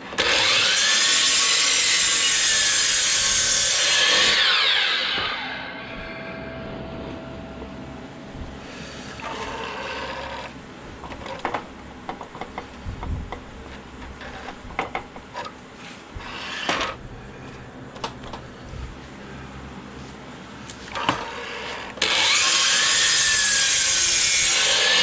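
Power saw cutting into a wooden post in two runs of about four seconds, one near the start and one near the end, the motor's pitch rising and then sagging in each cut. Between the cuts come quieter knocks and scrapes of wood being handled.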